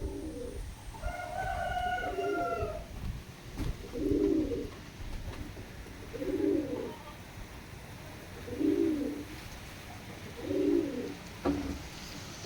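Domestic pigeon cooing, a low coo repeated about every two seconds, six times. A higher drawn-out call with several overtones sounds over the second coo, about a second in.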